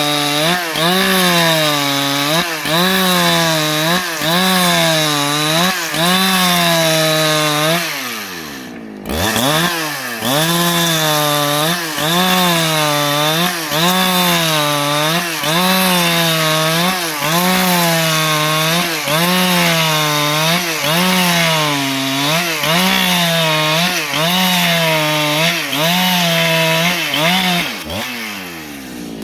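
Husqvarna 395 XP chainsaw, a 94 cc two-stroke, cutting wood under load. Its engine pitch dips and recovers just over once a second. About eight seconds in the revs fall briefly, then climb back to full cutting speed, and near the end they fall away again.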